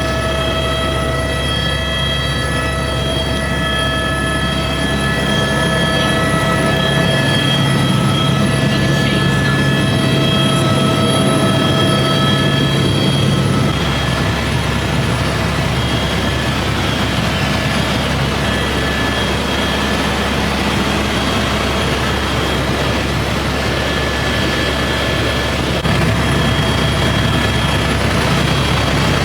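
Helicopter in flight: a steady, loud drone of engine whine and rotor noise. Its low rumble changes character about halfway through.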